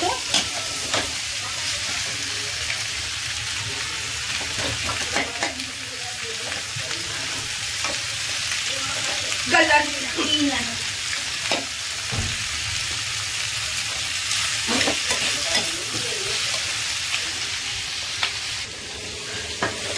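Chopped onion and green capsicum sizzling steadily in hot oil in a kadhai, being stir-fried with a metal spatula that scrapes and knocks against the pan now and then.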